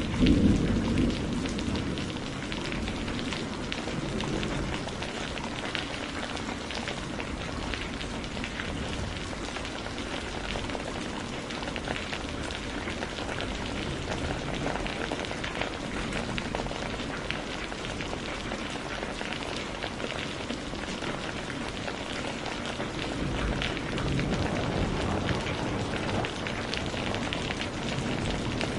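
Steady rain falling, with dense fine patter of drops. A low roll of thunder dies away in the first couple of seconds, and a softer low rumble swells again about three-quarters of the way through.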